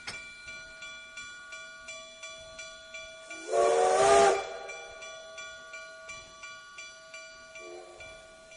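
Blacksmith's hammer striking an anvil in a steady rhythm, about two blows a second, each ringing on. About three and a half seconds in, a loud whistle with a rush of hiss, like a steam whistle, cuts across it, and a short faint whistle follows near the end.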